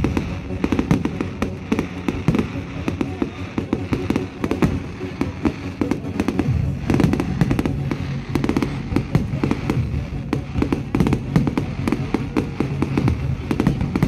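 Fireworks display going off: a rapid, continual run of bangs and crackles, with music playing underneath from about six seconds in.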